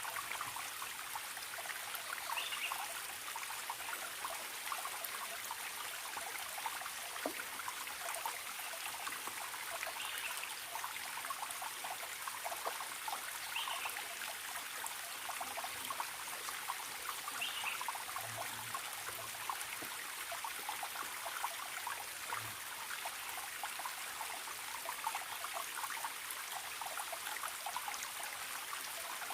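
A forest stream trickling and gurgling steadily, with a few short, faint bird calls every few seconds in the first half.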